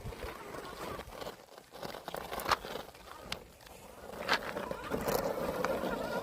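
Traction Hobby Mercedes Brabus G550 4x4² scale RC crawler driving over rough ground: a small motor's hum, steadier in the second half, with a few sharp clicks and knocks from the chassis and tyres.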